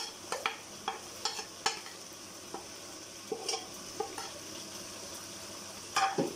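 Chicken pieces sizzling steadily as they fry in a pot, while a spoon taps and scrapes ground spices off a plate into it, in a dozen or so short clicks. A louder clack near the end as the plate is set down.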